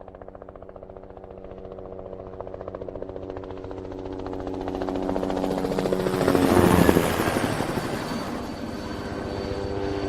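Helicopter approaching with a steady rotor beat and engine whine, growing louder and loudest about seven seconds in as it passes close, then easing slightly.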